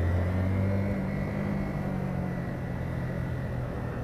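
Motorcycle engine running at low revs as the bike rolls along, with road noise; the steady low engine note eases off after about two and a half seconds.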